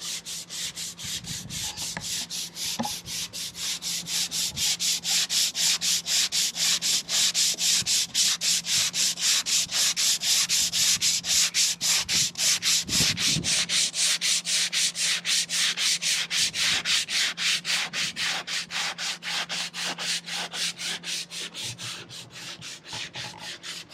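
Hand sanding with sandpaper on the boat: rapid back-and-forth strokes, about four a second, each a scratchy hiss, growing louder toward the middle and easing off near the end. A faint steady hum runs underneath.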